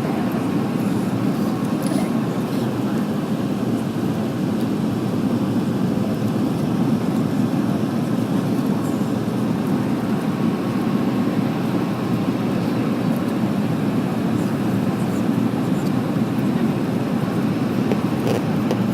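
Steady cabin noise inside an Airbus A319 in flight: an even, low rush of engine and airflow noise that holds constant.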